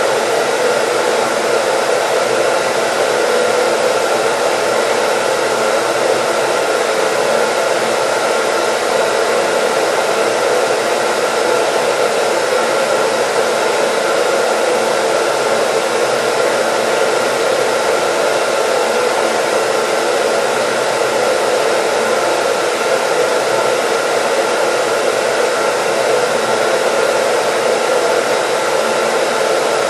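Electric hair dryer running steadily: an even rushing whoosh of air with a faint steady motor hum, unchanging throughout.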